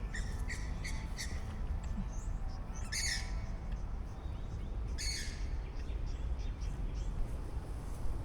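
Birds calling: a few short chirps in the first second or so, then two louder, harsh calls about three and five seconds in.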